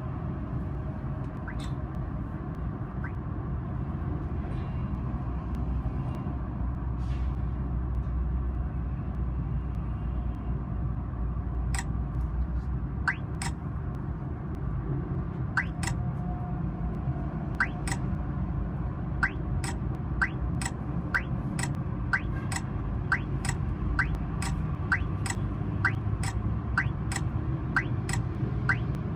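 Engine and road rumble of a vehicle being driven. About twelve seconds in, a sharp regular ticking starts and speeds up to roughly one to two ticks a second.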